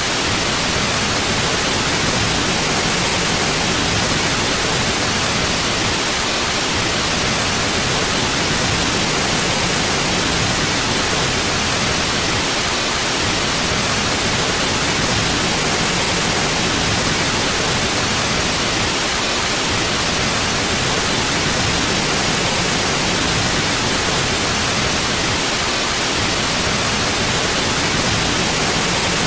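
Steady white noise: an even, unchanging hiss with no tones or breaks.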